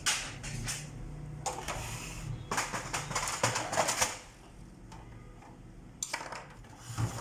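HP LaserJet P3005 laser printer clicking and clattering through its power-on initialisation, with a low steady hum in a quieter stretch after about four seconds and more clicks near the end. No gear grinding is heard, because the damaged, slipping drive gear has been replaced.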